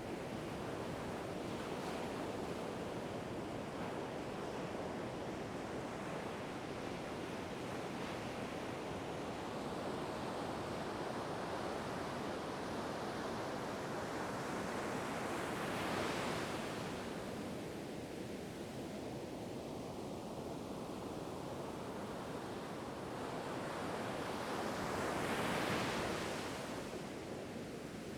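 Ocean waves washing onto a shore over a steady roar of surf, with two larger waves breaking, one about halfway through and one near the end.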